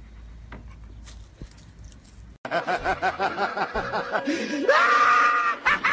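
A person laughing hard in quick bursts, breaking into a long high-pitched squeal, then laughing again. The laughter starts suddenly about two and a half seconds in, after a faint quiet stretch.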